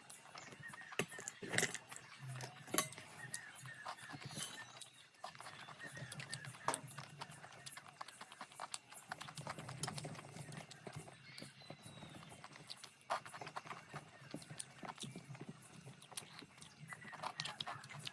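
Eating sounds: irregular clicks and crunches of chewing.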